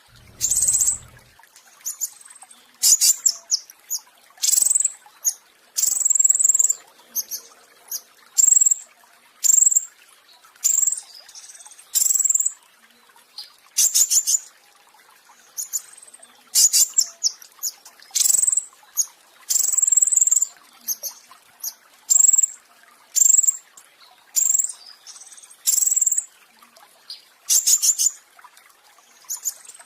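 Petis raja songbird singing in its 'roll tembak' style: short, high-pitched, rapid rolling phrases repeated about once a second, with brief pauses between them.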